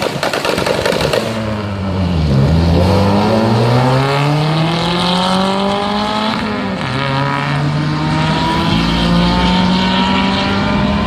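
Turbocharged 1.8T four-cylinder of a VW Jetta accelerating hard under boost, starting with rapid popping in the first second. The engine note climbs steadily, drops at gear shifts about two and six and a half seconds in, then climbs again.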